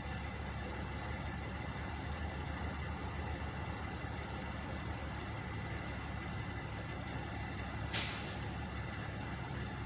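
Truck engines idling steadily in a low rumble, with a short sharp hiss of air from a truck's air brakes about eight seconds in.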